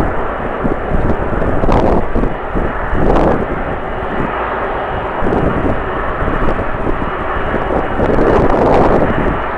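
Jet airliner engines running, heard as a loud steady roar that swells a few times, with strong gusty wind buffeting the microphone in low rumbles.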